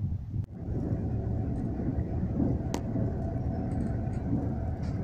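Steady running rumble of a moving passenger train heard from inside the carriage, with a faint steady hum and a single sharp click near the middle.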